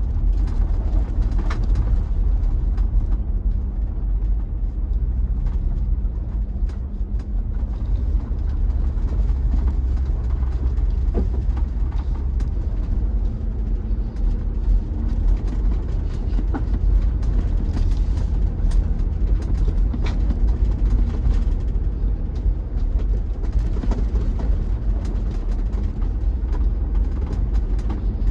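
A vehicle driving up a snowy mountain road, heard as a steady low rumble of engine and tyres with a faint engine hum and scattered clicks.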